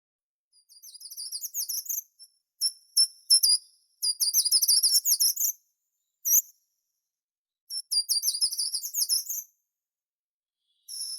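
A songbird singing in short phrases of rapid, high-pitched repeated notes, with brief silent pauses between the phrases. There are four phrases, plus a single note in the middle.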